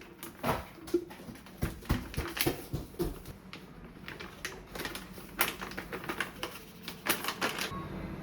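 Irregular light knocks and clicks of objects being handled, a dozen or so scattered over several seconds.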